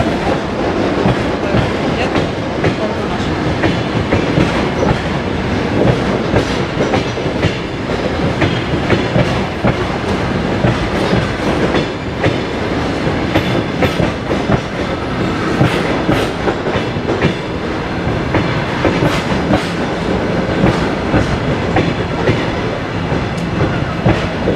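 Train cars rolling along the track, wheels clicking over the rail joints in a steady clatter.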